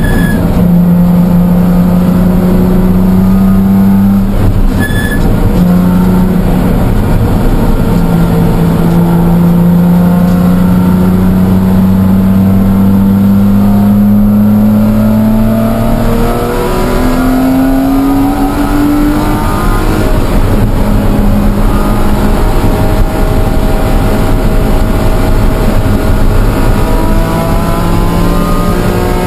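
BMW E46 M3's S54 straight-six engine running hard at track speed, heard from inside the cabin. It dips briefly twice early on, then the revs climb slowly over a long pull before falling away.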